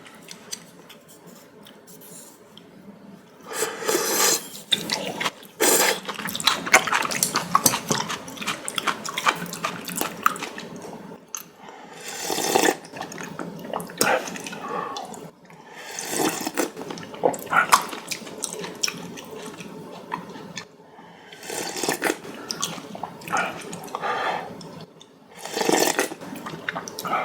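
A person slurping noodles and broth, in repeated noisy, wet bursts of a second to several seconds with quieter chewing between them.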